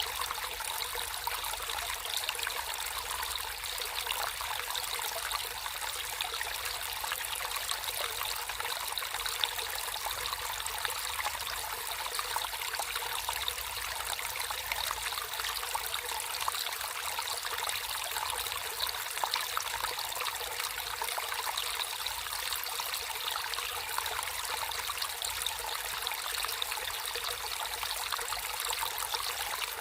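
Water flowing and trickling steadily over a natural course, a continuous babbling splash with no breaks.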